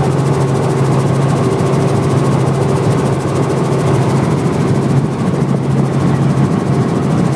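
Helicopter engine and rotors running steadily, heard from on board: a constant low drone with a fast, even beat.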